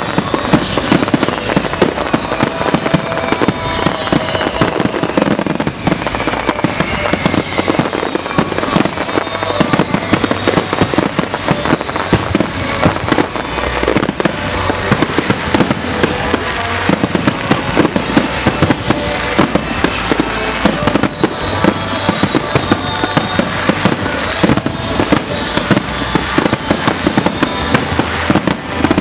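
Fireworks display: a dense, unbroken barrage of aerial shell bursts, many sharp bangs overlapping every second, with crackling in between.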